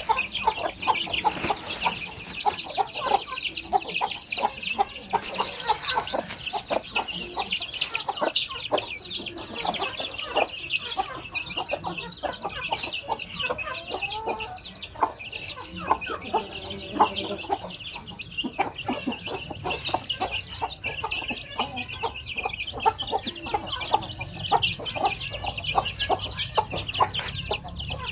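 A group of young chickens, about a month old, peeping continuously in a dense, high chorus, with some lower clucks. Many short, sharp taps run through it.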